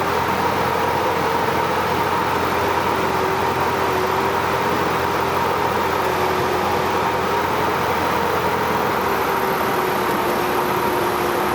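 Cessna 172's piston engine and propeller droning steadily, heard inside the cockpit, with a steady hum whose pitch sags slightly and slowly.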